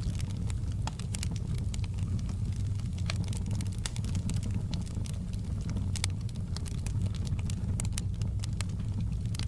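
Wood fire crackling in a fireplace: frequent, irregular sharp pops and snaps over a steady low rumble of the burning flames.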